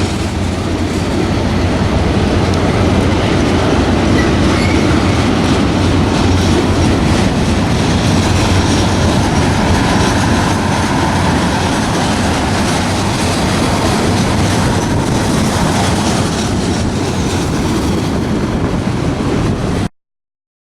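Railroad cars rolling past on the track, a steady rumble with wheel clatter on the rail joints and a faint wheel squeal in the middle. The sound cuts off abruptly near the end.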